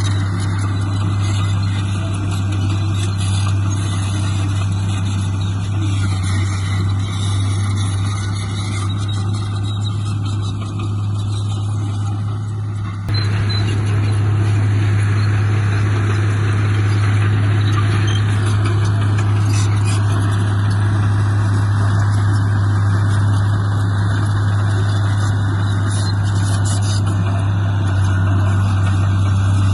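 Heavy diesel engine of earthmoving machinery running steadily under work, with a deep constant hum. The sound changes abruptly about 13 seconds in.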